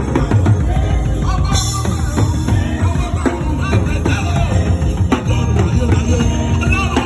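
Live worship band music, loud, with a drum kit beating out a steady rhythm under keyboard and singing.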